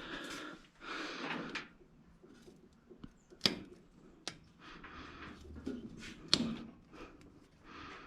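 Hand work on engine parts: rustling and scraping, with a few light ticks and two sharp clicks, one about three and a half seconds in and one about six seconds in.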